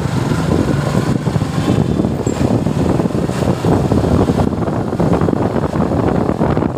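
Suzuki Gixxer motorcycle's single-cylinder engine running steadily while riding, with a rushing haze of road noise over it.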